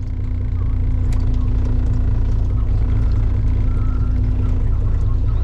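A fishing boat's engine running steadily: a constant low rumble with a steady hum.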